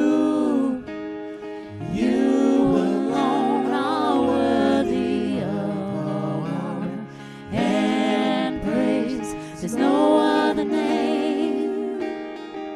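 Gospel song: voices singing long held, wavering notes over instrumental accompaniment, with short breaks between phrases.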